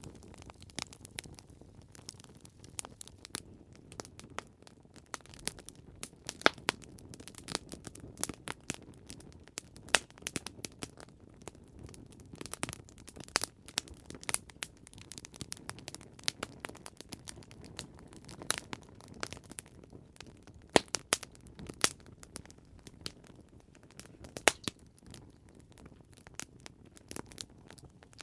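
Campfire crackling: irregular sharp pops and snaps, several a second, some much louder than the rest, over a steady low rush of the burning fire.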